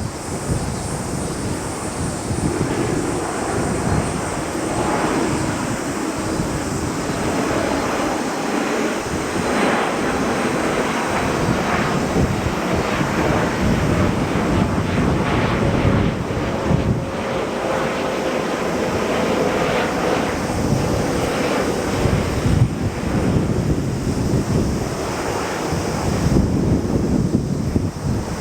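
Gusty wind buffeting the microphone over a steady rushing noise, with a faint whine that slowly falls in pitch about halfway through.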